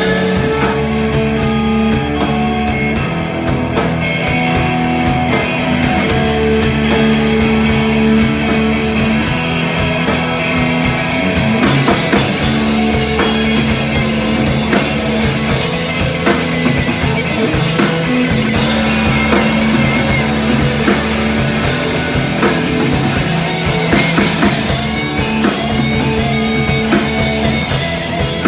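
Rock band playing live: electric guitars, bass guitar and drum kit together at full volume, the bass holding long notes that change every few seconds.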